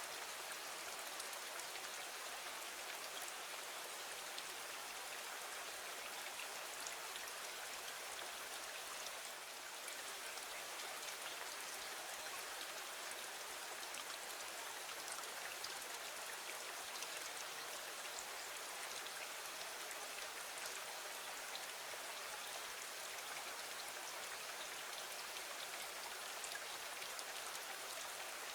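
Steady rain falling against a window: an even hiss with scattered faint ticks.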